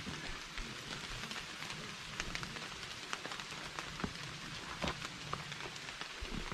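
Rain falling: a steady hiss with scattered individual drops ticking close by at irregular moments.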